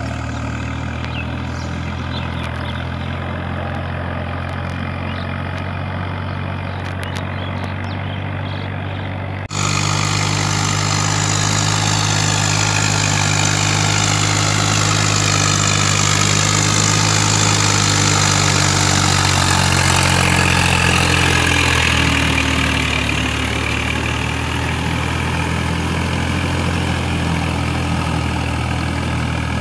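Tractor diesel engine running steadily. About a third of the way in it turns suddenly louder and brighter, and about three quarters of the way in its note drops slightly.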